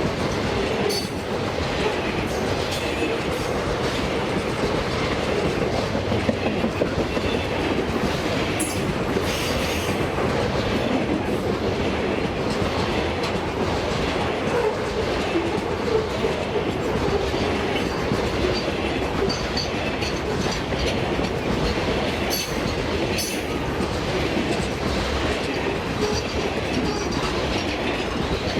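Freight train wagons rolling steadily past, their steel wheels clicking over the rail joints again and again.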